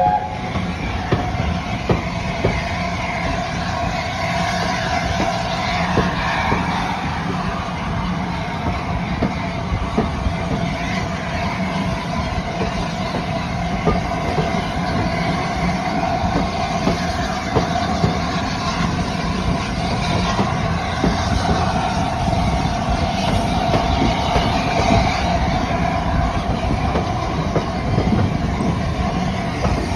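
Steam-hauled passenger coaches running along the line, heard from a carriage window: a steady rumble of wheels on the rails with frequent clicks over the rail joints.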